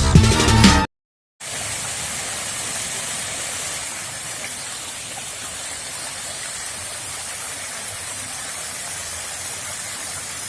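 Background music cuts off about a second in. After a brief silence comes a steady, even rushing noise with a faint high hiss and no distinct events.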